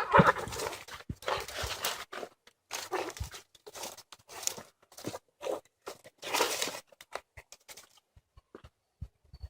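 Cats fighting: a short pitched cry at the start, then a string of noisy hisses and scuffles, thinning to a few small knocks near the end.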